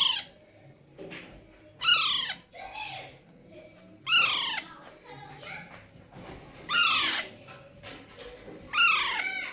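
Baby Alexandrine parakeet calling: five loud, harsh calls about two seconds apart, each rising then falling in pitch, with softer calls between.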